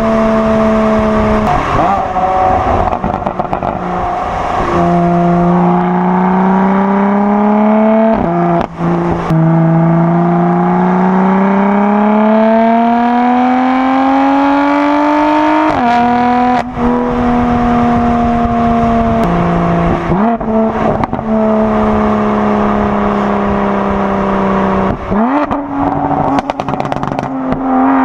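BMW M4 Competition's S55 twin-turbo inline-six running through a non-resonated custom equal-length midpipe with the stock downpipe and rear box. The engine note climbs slowly through a long pull in the middle, with several abrupt drops and jumps in pitch along the way.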